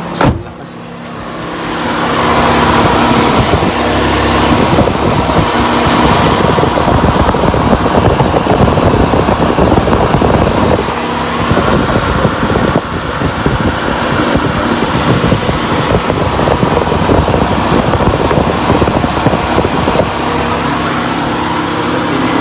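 Nissan Almera's electric cooling fan clicking on, spinning up over about two seconds and running hard, its air rushing over the microphone, with the level dropping a little near the end. The fan running with only the ignition on is the symptom of a blown fuse.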